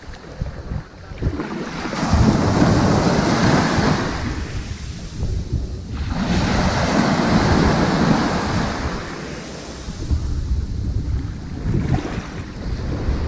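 Ocean surf breaking and washing up on a sandy beach, each wave rising to a rush and fading away every few seconds.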